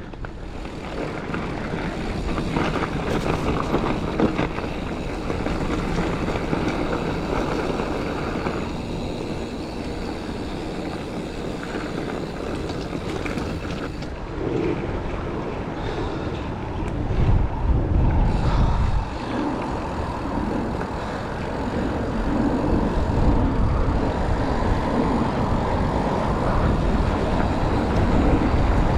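Giant Fathom mountain bike riding a dirt trail: steady wind rush and tyre and frame rattle on the camera's microphone, with heavy low wind buffeting a little past the middle and again near the end.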